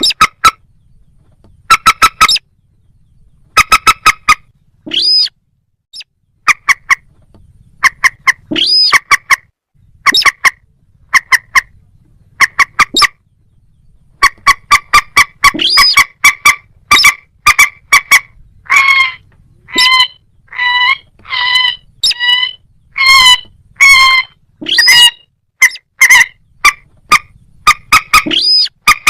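Loud, repeated calls of a rail such as a moorhen or crake: short nasal notes in clusters of two to four. About halfway through they become a near-unbroken run of calls, some rising sharply in pitch.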